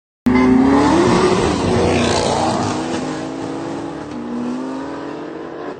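Car engine revving, its pitch rising and falling, starting suddenly and slowly fading.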